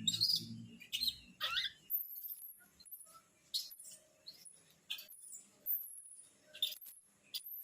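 A small pet animal calling with short, high-pitched squeaky chirps, about one every second, some sliding down in pitch.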